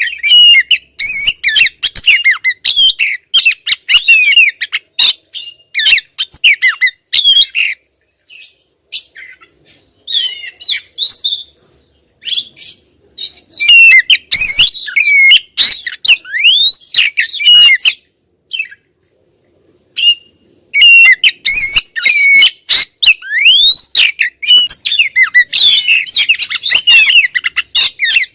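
Female oriental magpie-robin (kacer) calling insistently: fast runs of whistled, sliding chirps and squawky notes, broken by a few short pauses.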